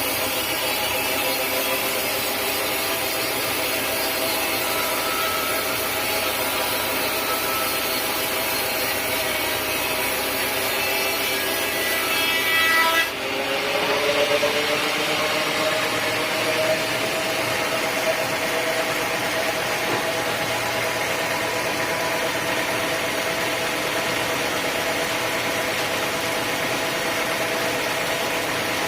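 Sawmill saw running steadily as it cuts teak. About halfway through, the cut ends with a brief jolt, and the saw's pitch rises over a few seconds as it spins back up to free-running speed, then holds steady.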